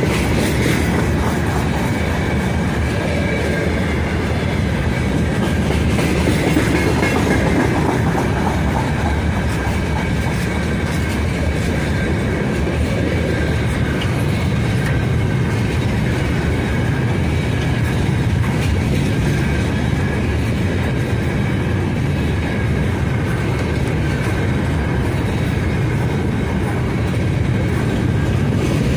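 Freight train of open gondola wagons rolling past close by: a steady rumble of wheels on rails with clickety-clack over the rail joints. A faint, steady high ringing tone runs above it.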